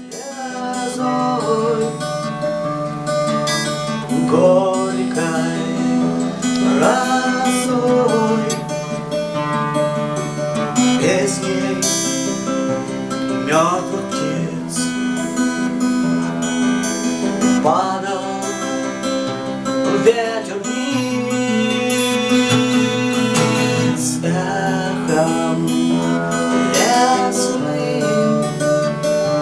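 Acoustic guitar music with strummed chords over sustained low notes: an instrumental introduction without singing.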